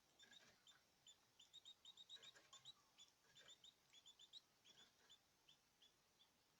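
Caged small birds chirping: short, high call notes repeated several times a second, thickest around the middle, with a few softer lower notes among them.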